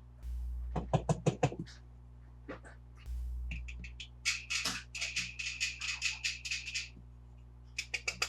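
Handling of plastic toy cars and their packaging: runs of quick sharp plastic clicks and rattles, with two short bursts of rustling near the start and about three seconds in.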